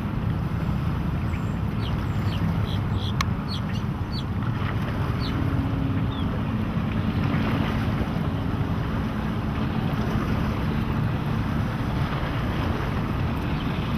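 Twin Volvo Penta 5.7 GSi fuel-injected V8 sterndrives running steadily with the boat under way, with water rush and wind on the microphone.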